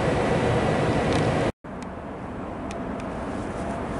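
Railway station noise: a loud steady rumble of train or locomotive running noise cuts off abruptly at an edit about a second and a half in. After it comes a quieter steady background with a few faint clicks, slowly growing louder.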